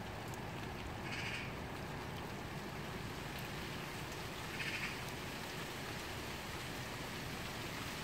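Steady rain falling during a thunderstorm, with two brief high sounds, one about a second in and one near five seconds.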